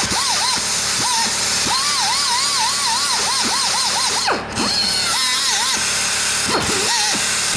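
High-speed rotary grinder sanding the intake and exhaust ports of a 16-valve cylinder head, its whine dipping in pitch again and again as the bit bites into the metal, with deeper drops a little past halfway and near the end. Music plays underneath.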